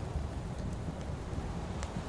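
Campfire crackling with a few sharp pops, the clearest one near the end, over a steady low rumble of wind.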